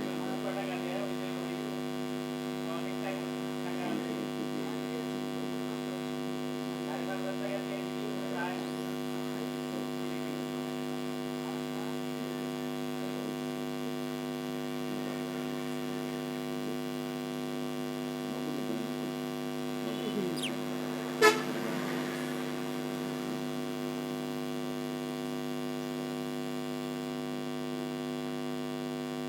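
A steady electrical hum with many overtones runs throughout. Faint short chirps sound over it in the first several seconds, and a single sharp click comes about three-quarters of the way through.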